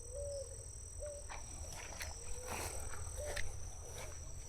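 Outdoor insect chorus: a steady, high-pitched cricket-like drone, with short low chirping calls repeating about five times. Scattered soft clicks and crackles sound over a low rumble.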